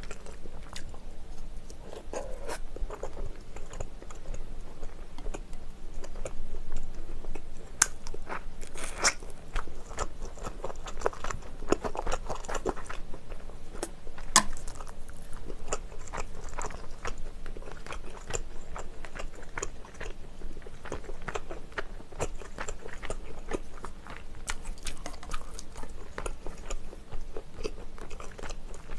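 Close-miked chewing of spicy braised chicken breast meat, with a steady run of short, sharp wet mouth clicks, a few louder than the rest.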